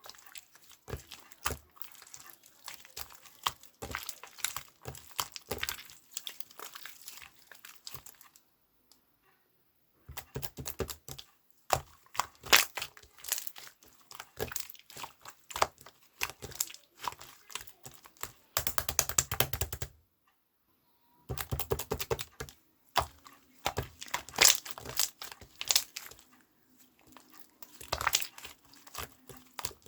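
Crinkling and crackling from something being handled, in dense irregular bursts, stopping briefly twice.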